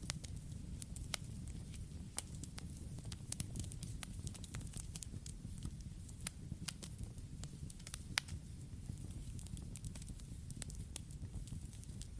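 Campfire burning: a steady low rumble of flames with irregular sharp crackles and pops from the wood, one louder pop a little after eight seconds.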